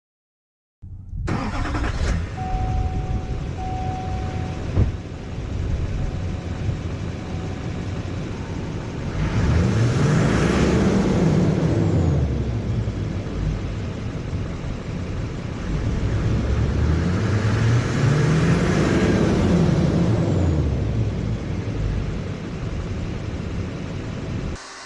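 LBZ Duramax 6.6 L V8 turbo-diesel running with the muffler removed, revved twice, its pitch climbing and then falling back each time.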